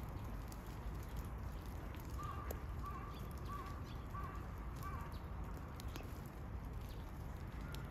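A bird calling five times in an even, quick series about two seconds in, over a steady low rumble.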